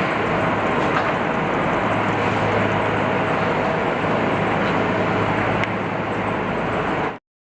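Assembly-line machinery on a truck factory floor: a steady dense din with a low hum and a few faint clicks. It cuts off abruptly near the end.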